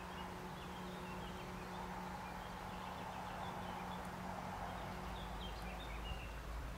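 Small birds chirping in short, high notes scattered through, over a steady rushing background noise and a faint low hum.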